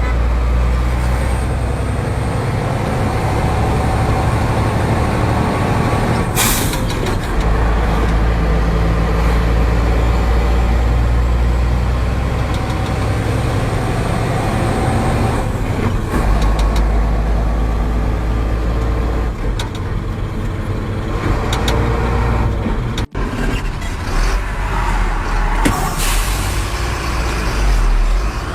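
Truck engine running steadily, with two short hisses of air brakes, one about six seconds in and one near the end.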